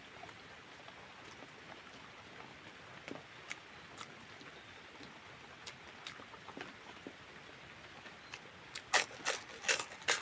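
Close-miked eating sounds of a person eating with his fingers. A few faint clicks and smacks, then about nine seconds in a run of loud, sharp mouth clicks and chewing as a bite goes into his mouth.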